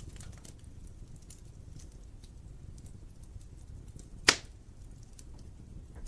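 Wood fire burning in a fireplace: a low steady rumble of the flames with scattered small crackles of burning logs, and one loud sharp pop a little over four seconds in.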